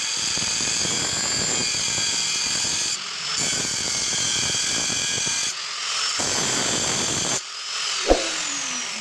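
A power tool running with a steady high whine, in several short stretches that break off abruptly, then a single sharp metallic clang with a brief falling ring about eight seconds in.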